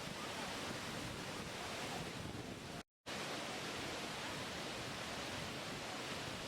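Steady rushing water, an even roar of falling or breaking water that cuts out completely for a moment just under three seconds in, then resumes.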